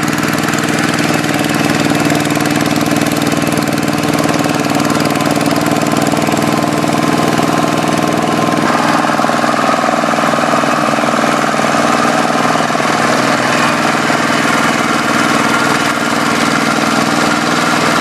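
Hand tractor's single-cylinder diesel engine running steadily. Its sound changes about halfway through, with less low rumble and more mid-range clatter.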